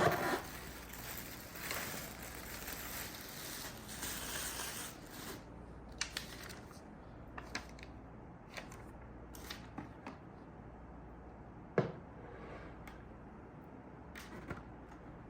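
Unboxing handling noise: a sharp knock, then packaging rustling for about five seconds, followed by scattered clicks and taps and one heavier thump about three-quarters of the way through.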